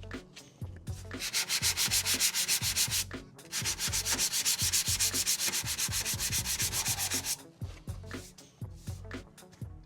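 Sandpaper being worked over cured body filler on a car body panel in rapid back-and-forth strokes. There are two long runs of strokes, split by a short pause about three seconds in, with lighter scattered strokes at the start and end.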